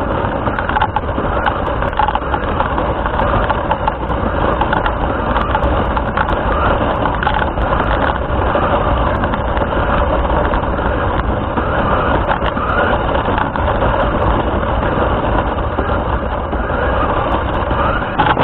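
RC car driving along, heard through its onboard camera's microphone: a steady, loud mix of motor, drivetrain and tyre noise.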